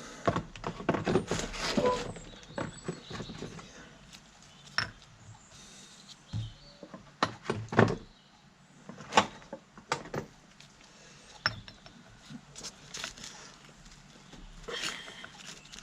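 Small metal parts and tools being handled during a hydraulic pump rebuild: a quick run of clicks and knocks over the first couple of seconds, then single clicks and taps every second or so.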